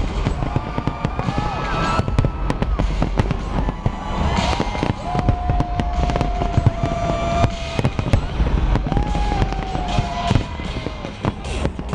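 Big fireworks display: dense repeated bangs and crackling over loud music with a heavy bass.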